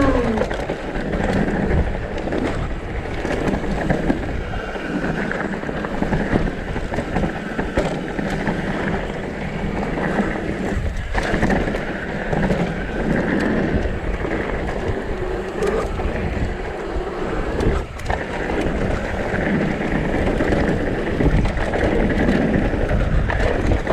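Wind rushing over the microphone with tyres rolling over a rough dirt and rock trail as a downhill mountain bike descends at speed. Frequent short knocks and rattles from the bike come through the steady noise.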